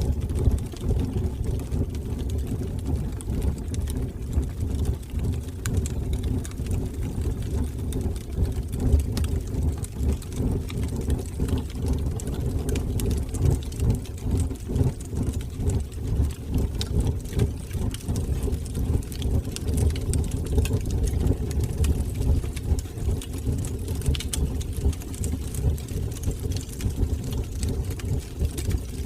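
Wood fire burning in a fireplace: a steady low rumble of the flames with frequent small crackles and pops throughout.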